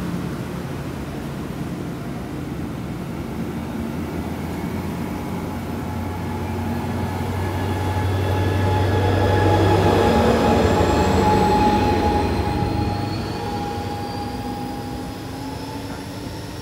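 Amtrak passenger train pulling out and rolling past, its cars giving a steady low hum with wheel-on-rail noise. It is loudest as the last cars go by, about halfway through, then fades as the train moves away, with faint high whines rising in pitch.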